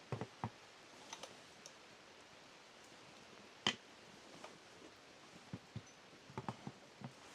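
Scattered light clicks and knocks over a faint steady hiss. There are a few in the first half-second, a sharper click about three and a half seconds in, and a loose cluster near the end.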